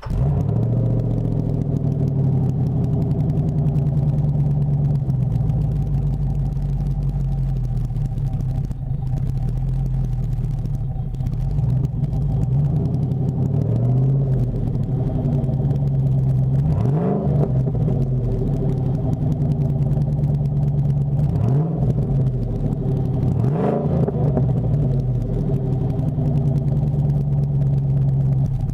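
Chevy truck V8 idling through short tube headers and a custom 3-inch cat-back with a Summit Racing MagnaFlow-style muffler, with three quick throttle blips in the second half.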